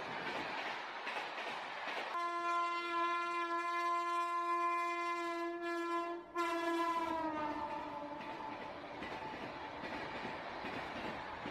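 Freight train wagons rolling past at close range. About two seconds in, a train horn sounds one long steady note. It breaks off briefly about six seconds in, then returns and slides down in pitch as it fades.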